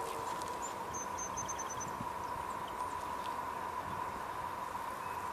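Birds chirping: a quick run of high chirps about half a second in and a few scattered calls after, over a faint steady hum.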